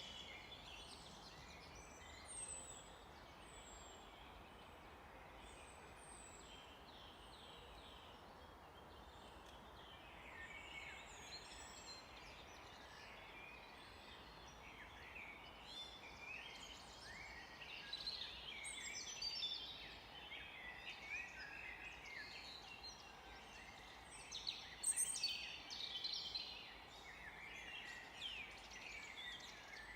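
Several songbirds singing in a forest. A thin, high note is repeated about once a second early on, and busy chattering song grows denser and louder from about halfway through, over a steady background hiss.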